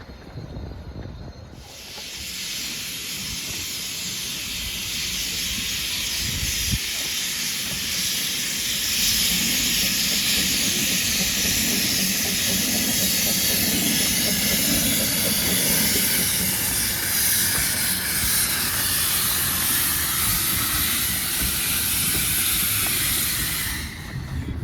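Narrow-gauge steam locomotive letting off steam: a loud, steady hiss that starts about a second and a half in and cuts off suddenly near the end, with a lower rumble under it in the middle.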